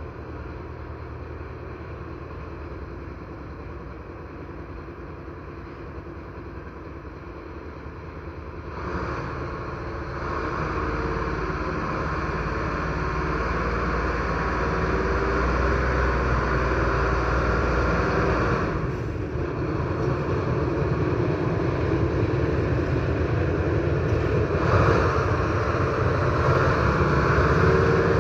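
A train running past on the line. Its low rumble and steady whine grow louder about nine seconds in and stay loud.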